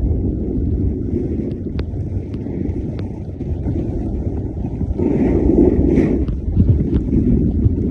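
Wind buffeting the camera's microphone, a steady low rumble with a few faint clicks, growing louder for a moment about five seconds in.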